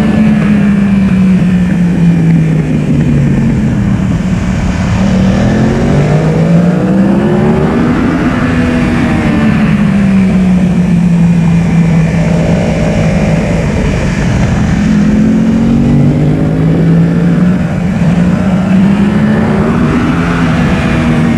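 Yamaha R1 inline-four engine at speed on track, its pitch climbing and falling over several seconds with throttle and gear changes, over heavy wind noise.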